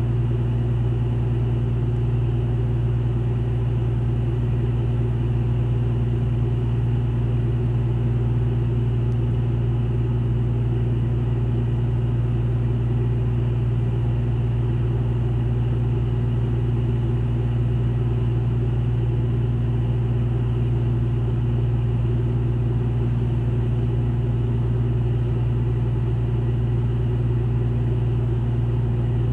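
Ship's engine machinery running with a steady low drone and hum, heard on board while the vessel is being berthed.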